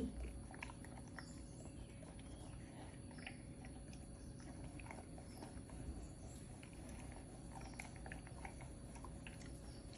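Puppy chewing and biting at its food: faint, scattered small clicks and soft smacks.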